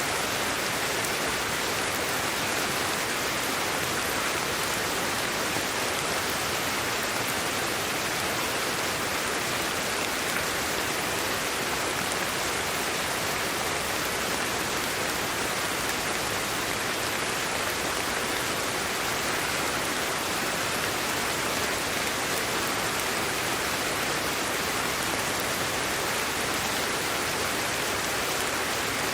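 Steady, unchanging hiss of sleep-aid white noise, a soft rain-like wash strongest in the upper middle range, with no drops, gusts or breaks.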